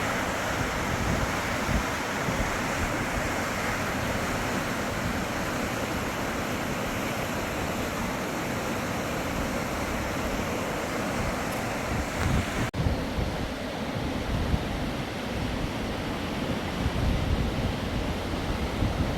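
Steady rushing water of a flooded river. About two-thirds of the way through it cuts to a duller rush, with wind buffeting the microphone.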